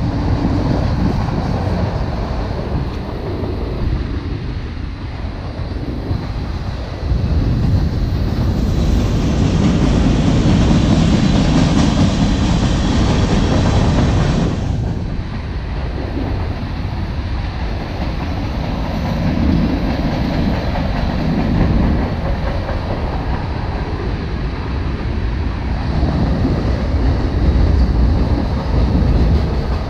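A train rolling past on the rails, a continuous heavy rumble of wheels and cars with clacking. It grows louder and hissier from about 8 seconds in, then drops back suddenly around 14 seconds.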